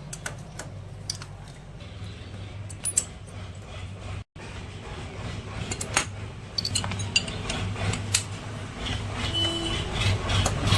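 Scattered metallic clinks and taps, as of tools and engine parts being handled, over a steady low hum. The sound cuts out completely for a moment a little past four seconds in.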